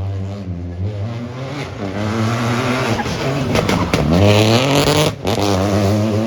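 Rally car engine running hard, its pitch climbing and falling as it revs, with a sharp momentary drop about five seconds in.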